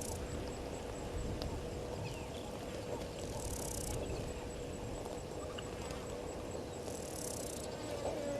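Bush ambience at a waterhole: a fast, high insect trill runs throughout, while a hissing insect buzz comes and goes about every three and a half seconds, over a low steady rumble.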